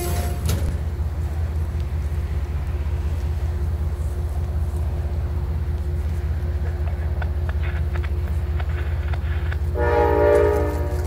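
Amtrak passenger train standing at a station platform: a steady low rumble with a few faint clanks, then a single horn blast of about a second near the end.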